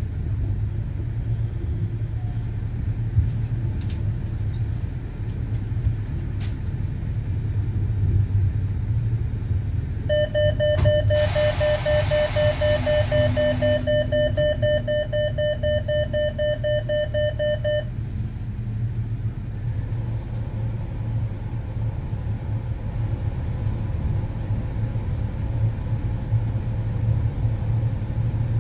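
Steady low rumble of a train running along the track, heard from the driver's cab. About a third of the way in, a steady high beep-like tone sounds for about eight seconds, overlapped in its first half by a short burst of hiss.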